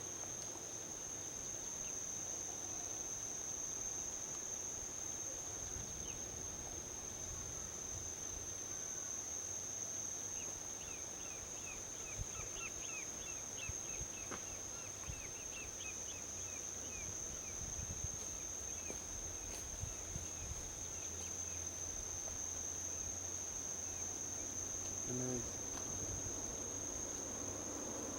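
Steady high-pitched chorus of insects over a low rumble of distant highway traffic. From about ten seconds in, a run of quick, high chirps for several seconds.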